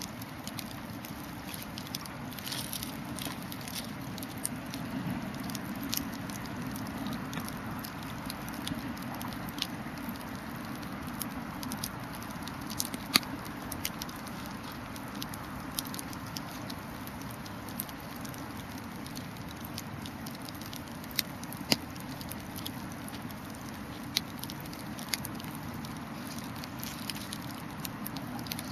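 Wood bonfire burning: a steady rushing hiss with irregular sharp crackles and pops from the burning wood, two of them louder, near the middle and about two thirds of the way through.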